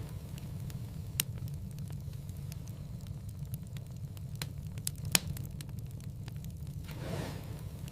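Wood fire in a fireplace crackling: scattered sharp pops, the loudest about five seconds in, over a low steady rumble of the burning logs. A brief soft rush of noise comes near the end.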